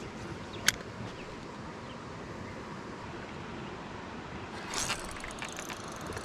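Steady outdoor noise on the water, with a single sharp click just under a second in and a brief rattle of clicks near the end.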